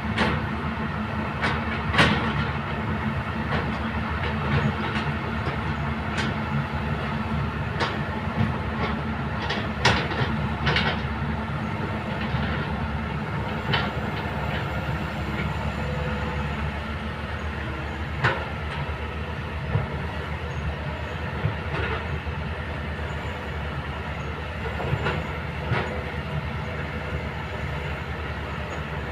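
Kobelco hydraulic excavator at work: a steady low diesel drone with sharp metallic clanks and knocks every few seconds, the loudest about two seconds in and around ten seconds in.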